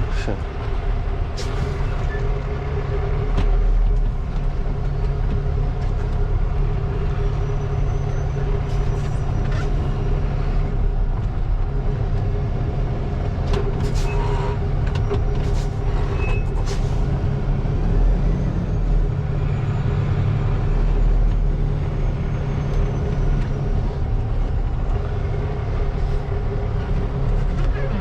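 Tractor-trailer truck's diesel engine running steadily, heard from inside the cab, with a few sharp clicks now and then.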